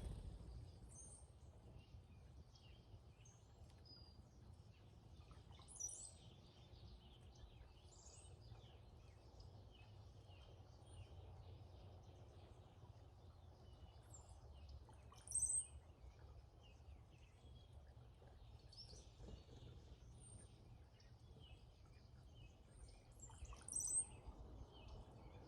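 Brown-headed cowbirds calling: a scatter of thin high chirps and whistles, with three louder high whistles about six, fifteen and twenty-four seconds in, over a steady low rumble.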